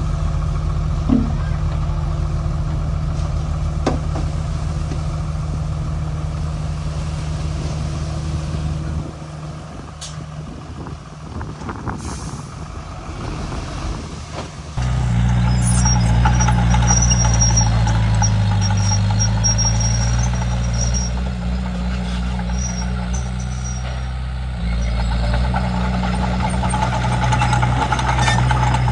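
Komatsu D31P bulldozer's diesel engine running steadily, dropping quieter for about six seconds around the middle, then picking up sharply and running louder. A faint high squeal runs for several seconds after it picks up.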